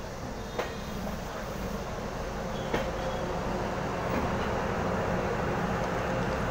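DEMU train rolling past on the adjacent track, a steady rumble of wheels on rail and its diesel power car, with two sharp clanks in the first three seconds. The sound grows a little louder about four seconds in as the power car comes alongside.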